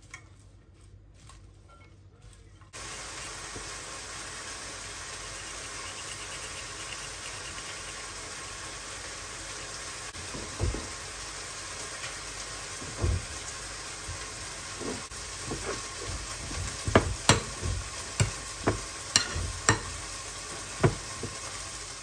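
Food frying in a pan: a steady sizzle that starts suddenly about three seconds in, as the food hits the hot oil. In the second half a utensil stirs it, with a run of sharp knocks against the pan near the end.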